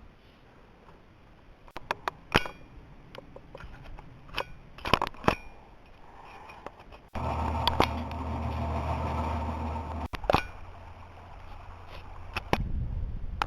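Handling noise from a handheld camera: a string of sharp clicks and knocks, with a low rumble about seven seconds in that starts and stops abruptly, as between recorded clips.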